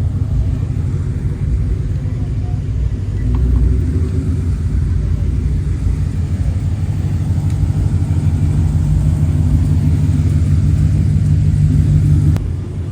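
Car engine running with a low rumble. A steady hum grows louder over several seconds, then drops off sharply near the end.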